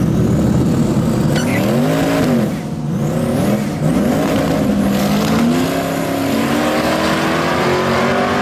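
Truck engine revving up and down a few times, then held in one long rising pull as it accelerates hard.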